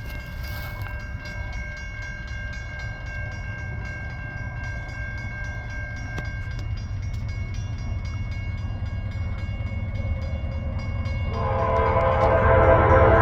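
Approaching train with a steady low rumble that slowly grows louder. About eleven seconds in, the locomotive's air horn sounds, a loud chord of several notes held to the end.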